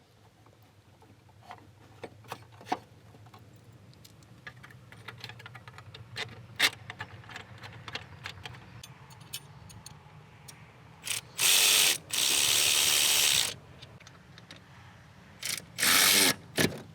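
Ratchet tightening the bolts of a Subaru pitch stopper mount: scattered clicks for about ten seconds, then a power ratchet running in three loud bursts, the longest about a second and a half.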